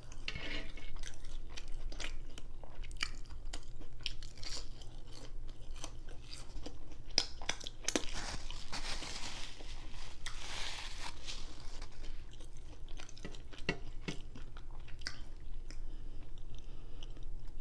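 A person chewing french fries and a fish sandwich, with many small crunches and wet mouth clicks.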